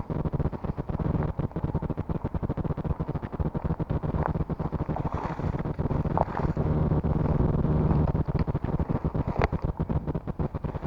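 Wind buffeting the microphone in a dense, fluttering rumble, with a few short sharp rustles or clicks.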